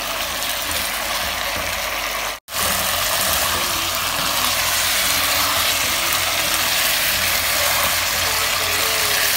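Chicken leg pieces sizzling in oil and masala in a pot while a wooden spatula stirs and scrapes them: the water the chicken released is being cooked off into the masala. The sound drops out for an instant about two and a half seconds in.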